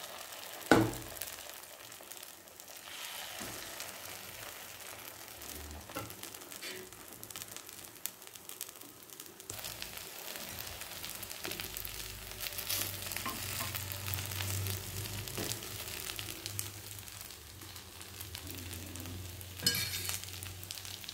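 Paniyaram batter sizzling and frying in oil in a cast-iron paniyaram pan, a steady hiss. A single sharp knock about a second in is the loudest sound, with another short clatter near the end.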